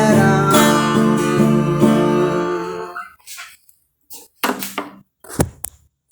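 Acoustic guitar strumming the song's closing chords, dying away about three seconds in. This is followed by a few scattered taps and knocks.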